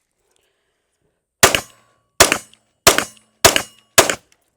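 Smith & Wesson M&P Shield Plus pistol in 30 Super Carry fired five times, starting about a second and a half in, at roughly one shot every two-thirds of a second.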